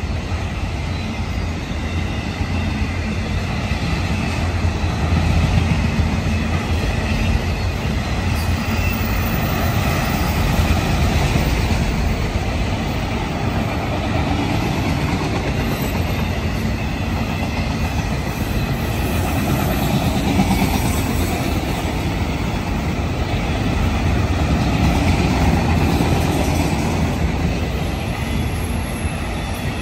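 A long string of enclosed autorack freight cars rolling past: a steady rumble and rattle of steel wheels on the rails, swelling slightly now and then.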